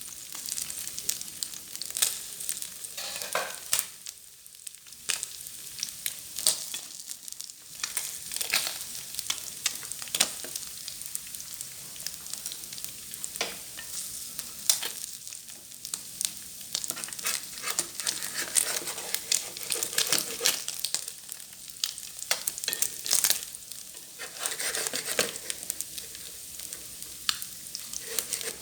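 Small freshwater field fish frying in hot oil: a steady sizzle with frequent sharp pops and crackles.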